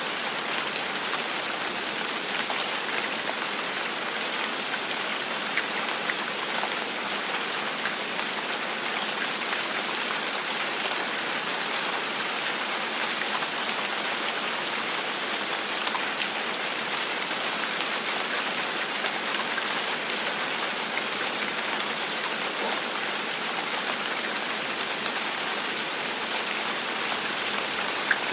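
Steady gentle rain falling on a surface, an even hiss with scattered individual drop ticks.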